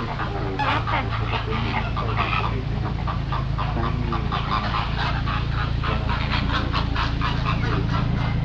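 A flock of flamingos honking and chattering, many short calls overlapping in quick succession, over a steady low hum.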